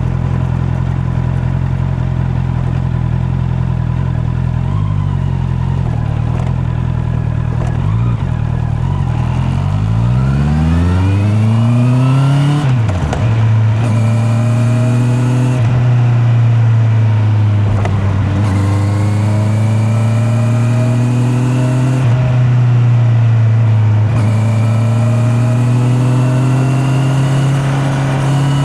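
Honda CB650R inline-four motorcycle engine running steadily, then revving up through the gears about ten seconds in, with quick pitch drops at three upshifts, before settling into a cruise with the throttle rolling on and off. Heard through a microphone in the rider's back pocket.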